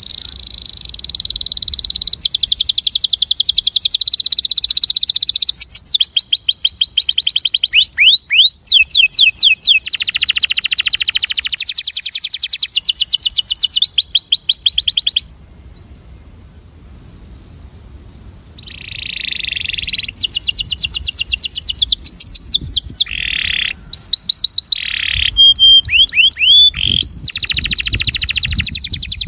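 Male domestic canary singing courtship song: long runs of rapid, high-pitched trills and repeated notes, with a break of a few seconds about halfway before the song picks up again in shorter, varied phrases.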